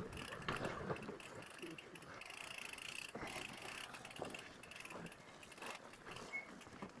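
Mountain bike freewheel hub ticking and drivetrain rattling, with many small irregular clicks.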